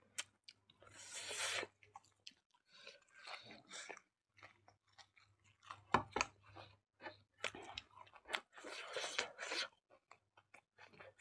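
Two people chewing and eating with their hands close to the microphone, in irregular bursts with some crunching.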